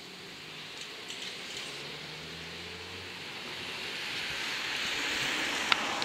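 Seibu 40000-series electric train pulling away from the station and drawing nearer, its running noise growing steadily louder, with one sharp click near the end.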